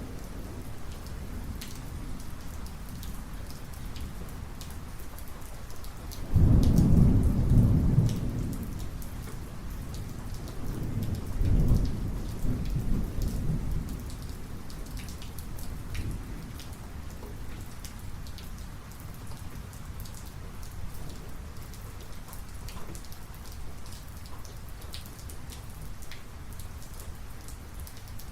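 Steady rain falling, with many scattered drop ticks. About six seconds in a sudden crack of thunder breaks out and rumbles away over a couple of seconds, and a second rumble of thunder swells and dies down a few seconds later.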